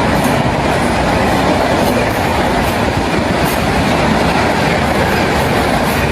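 Indian Railways express train passing close at high speed: a loud, steady rush of wheels on rail and coaches going by, with a faint repeated clatter.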